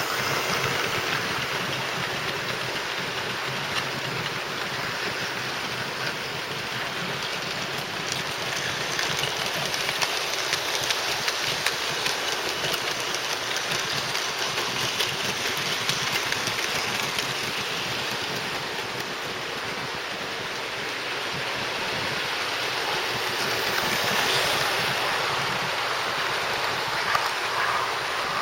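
00 gauge model locomotives and rolling stock running on the layout track: a steady motor-and-wheel whirr with many small clicks as the wheels pass over rail joints and points.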